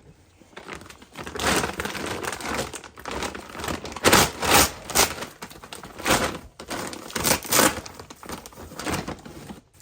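A package sealed with pull strings being scraped and torn open with a screw: a run of rough crinkling and ripping strokes, several of them sharp and loud.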